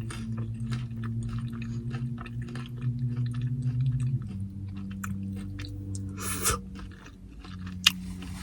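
Close-up chewing and crunching of carne asada tortilla chips (nachos), a run of small crisp crunches. Under it runs a steady low hum that drops in pitch about four seconds in.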